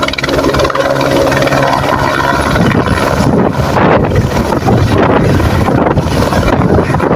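Helicopter running close by, loud. Steady engine and rotor tones fade after about two and a half seconds into a gusty rush of wind buffeting the microphone.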